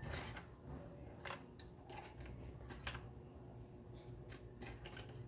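Faint, irregular clicks and taps of small blender parts and a tool being handled, about eight in all, over a low steady hum.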